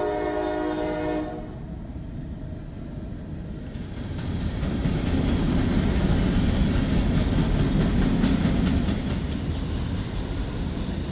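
CSX freight train passing: the locomotive horn sounds a chord that cuts off about a second in, then the diesel locomotives and freight cars rumble past, growing loud from about four seconds in and easing slightly near the end.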